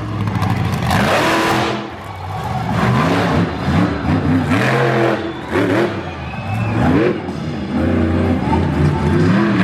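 Monster truck engine revving hard in repeated throttle bursts, its pitch rising and falling several times.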